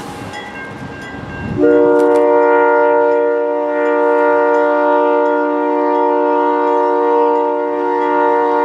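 Diesel freight locomotive's multi-chime air horn sounding a long, steady chord. About a second and a half in, the horn jumps louder and the rumble of the train beneath it drops away.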